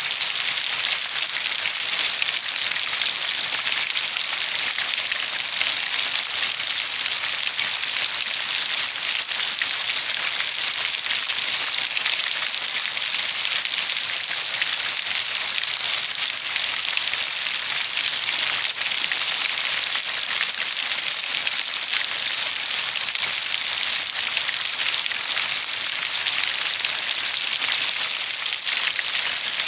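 Steady, heavy rain falling on a surface, an even hiss with dense fine drop patter and no pauses.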